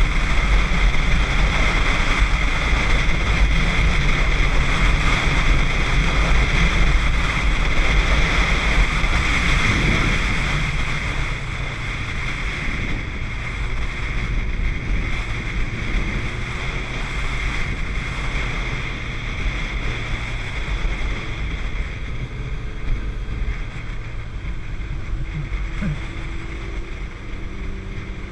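Wind rushing over the microphone with a motorcycle engine running underneath while riding on the road. It eases off a little about ten seconds in.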